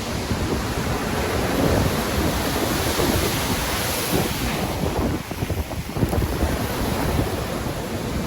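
Stormy sea: waves surging and breaking in a continuous rush of surf, with strong wind. The surf swells to a peak about three seconds in and eases briefly just after the midpoint.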